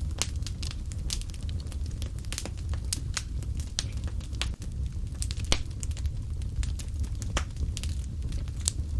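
Fireplace fire crackling: frequent sharp pops and snaps over a steady low rumble. A louder pop comes about five and a half seconds in.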